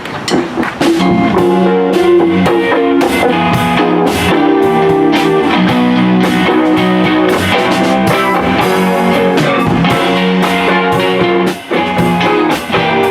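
Live band playing a song's instrumental intro: guitar chords with a drum kit keeping the beat, no vocals. It kicks in about a second in.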